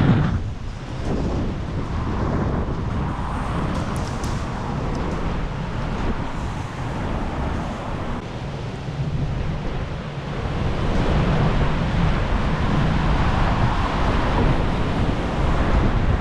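Strong gusting wind buffeting the microphone, over the wash of storm waves on a lakeshore. The wind noise grows louder about two-thirds of the way through.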